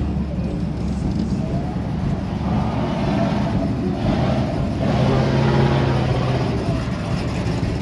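Car engines running and rumbling in the street, with a steady pitched engine note growing louder about five seconds in, over a background of crowd voices.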